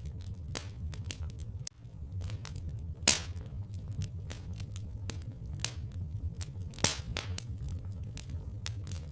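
Log fire crackling: irregular sharp snaps with a couple of louder pops, about three seconds in and just before seven seconds, over a steady low rumble.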